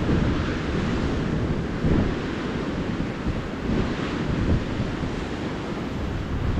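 Ocean surf washing steadily onto the beach, with wind buffeting the microphone in low, uneven gusts.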